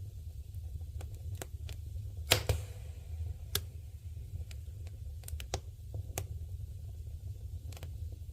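Wood bonfire crackling, with irregular sharp pops over a low steady rumble; the loudest pop comes about two seconds in.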